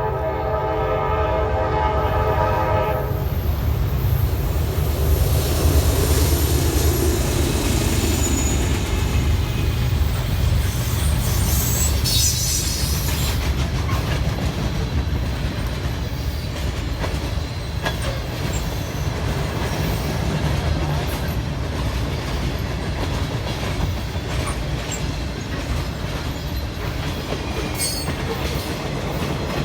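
A locomotive air horn sounds and cuts off about three seconds in, then a train rolls past with a steady low rumble and the clatter of wheels on rail, with a few brief high squeals.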